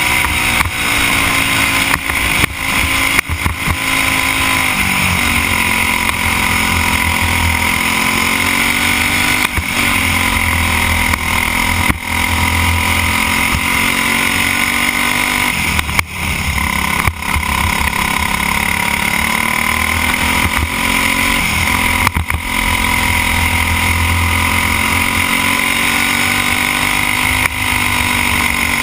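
A racing kart's Briggs & Stratton Animal single-cylinder four-stroke engine heard from the driver's helmet, running hard. Its pitch drops and climbs back up about every five to six seconds as it slows into corners and accelerates out, over a steady rush of wind on the microphone.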